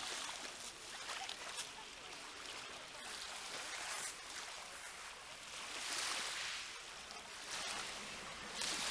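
Sea water washing and splashing in slow surges, rising and falling every few seconds, with faint voices underneath.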